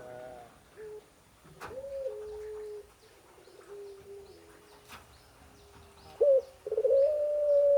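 A female bird's long, drawn-out calls to her mate, each holding one pitch and slowly falling: a quieter call about two seconds in, and a loud one starting near the end. Faint high chirps repeat behind.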